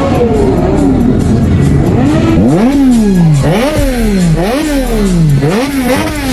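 A vehicle engine revved hard again and again: in the second half, four or five throttle blips about a second apart, each rising sharply in pitch and falling back. Background music plays throughout.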